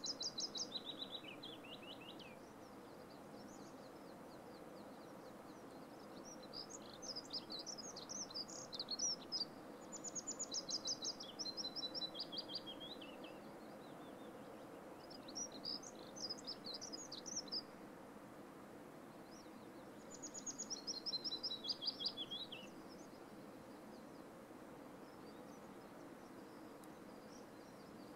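A songbird singing the same short song over and over, about five times: each phrase is a quick run of high notes, most of them stepping down in pitch, with a few seconds between phrases. A steady faint hiss lies underneath.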